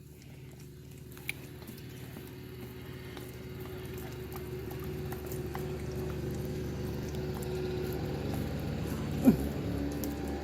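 A pet dog licking and smacking at peanut butter: wet, small licking sounds over a low steady hum. About nine seconds in comes one brief, falling squeak.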